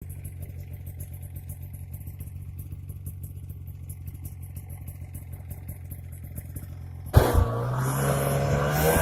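Yamaha snowmobile engine idling steadily, then about seven seconds in it revs up sharply, its pitch climbing and the sound growing much louder.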